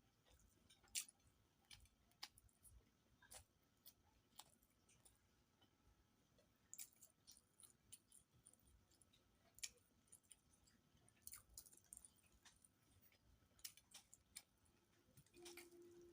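Faint, irregular wet clicks and smacks of a person chewing a mouthful of rice and curry.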